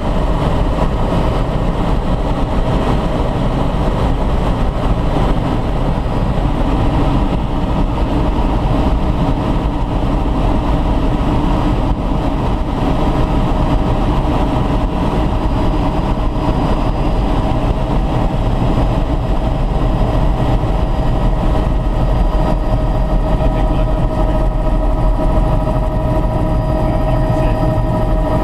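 A helicopter running steadily in flight: a loud, unchanging noise with a few steady whining tones over it.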